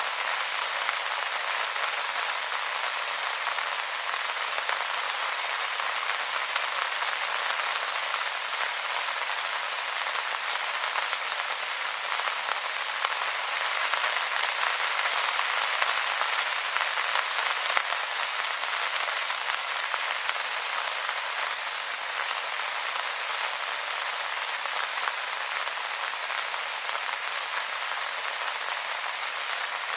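Steady rain falling on wet leaves: an even, high hiss of many small drops pattering, with little low rumble.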